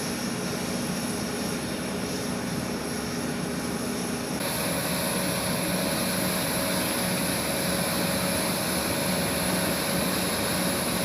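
Jet aircraft engines running with a steady roar and a few steady tones. The tones shift abruptly about four and a half seconds in.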